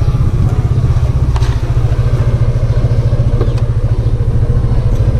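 Yamaha Aerox 155 scooter's single-cylinder engine idling steadily with a low, rapid pulse.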